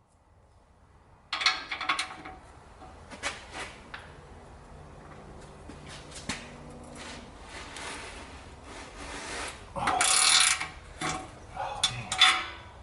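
Metal tools and parts clinking, clanking and rubbing as they are handled during work on a car's exhaust, with a louder flurry of clatter near the end.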